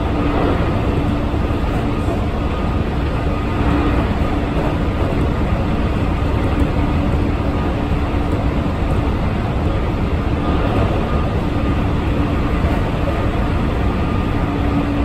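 Keihan electric train running at speed, heard from inside the passenger car: a steady rumble of wheels on the rails with a faint steady hum underneath.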